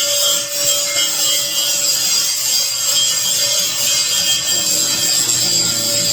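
Power grinder grinding steel frame-extension pieces: a steady abrasive rasp over the motor's whine.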